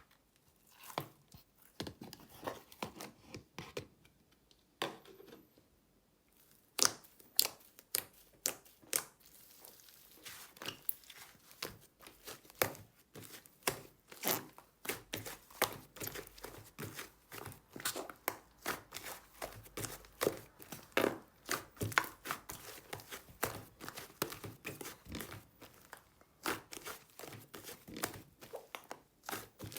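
Slime being pressed, poked and stretched by hand, giving irregular small crackling pops and clicks: sparse at first, then a dense run from about a quarter of the way in.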